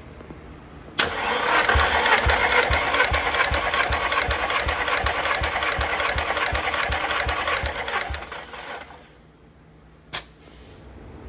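Nissan SR20DET engine spun over on its starter motor for a compression test, cranking for about eight seconds without firing, with even low pulses about three a second as the cylinders come up on compression. The cranking starts abruptly about a second in and dies away, followed by one brief sharp sound near the end.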